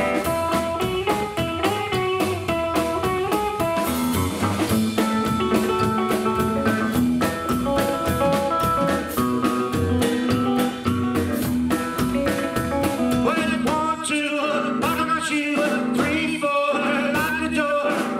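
Live rockabilly band playing an instrumental break: a run of guitar lead notes over double bass and a steady drum beat.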